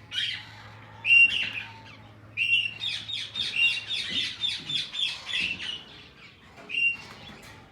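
Ring-necked parakeets calling: a few sharp, shrill screeches about a second apart, then a rapid run of short chirps, about four a second, for around three seconds, then another screech near the end.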